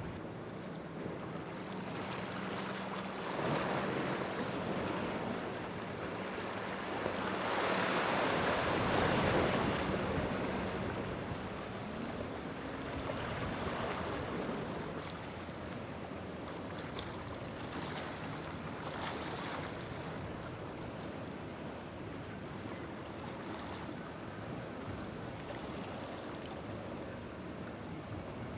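Inlet surf washing and breaking against the rock jetty, swelling about three seconds in and more strongly around eight to ten seconds in, over the low steady drone of a boat's outboard engines during the first half.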